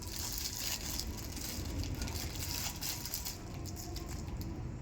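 Rustling, crackling handling noise, a dense run of small clicks over a low rumble.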